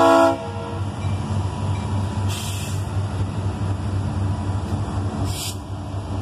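The lead locomotive's horn cuts off just after the start. Then a trailing ex-CSX EMD SD60M diesel locomotive rolls past with a steady low engine throb, working under load, as freight cars follow. Two brief hisses come about two and five seconds in.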